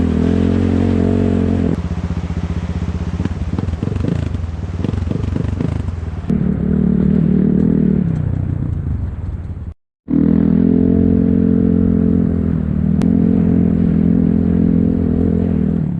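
Enduro motorcycle engine running under changing throttle, its pitch stepping up and down, with a rougher clattering stretch a couple of seconds in. The sound cuts out abruptly for a moment about ten seconds in, then the engine carries on.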